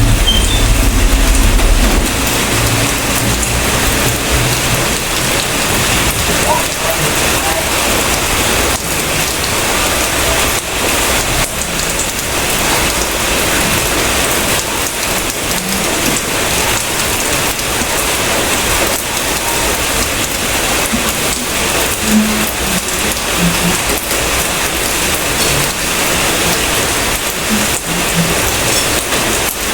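Steady, dense rainfall. A low rumble lies under it for the first two seconds and cuts off abruptly.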